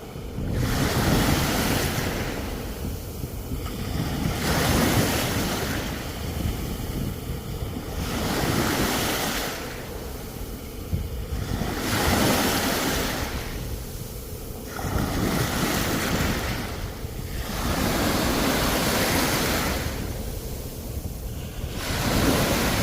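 Sea waves breaking on the shore, a new wave surging in about every four seconds, with wind rumbling on the microphone.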